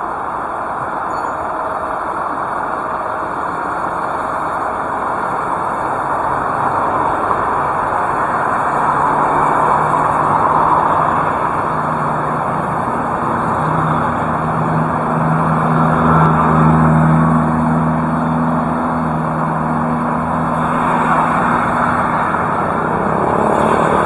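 Heavy rain hissing steadily. A motor vehicle's engine hum comes in about halfway through, holds for several seconds and fades, and another vehicle's rising engine note starts near the end.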